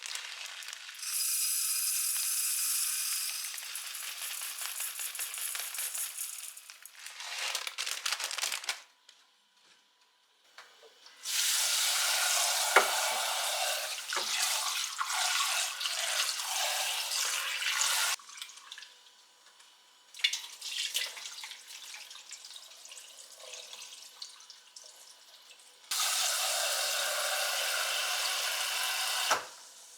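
Running water, heard as three spells that start and stop abruptly, the longest about seven seconds.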